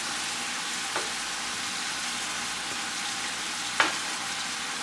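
Onions and tomatoes sizzling steadily in a frying pan as they are stirred, with the utensil clicking against the pan about a second in and again more sharply near the end.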